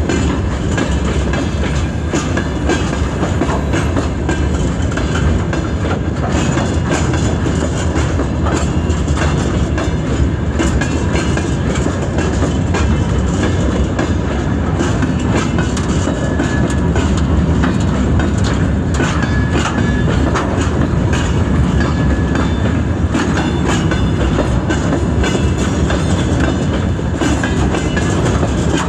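Freight train hauled by a ChME3 diesel shunting locomotive rolling past at slow speed, its wagon wheels clattering steadily over the rail joints.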